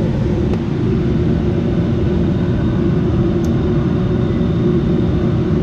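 Furnace blower running steadily, a loud, even noise of motor and moving air with a faint steady hum.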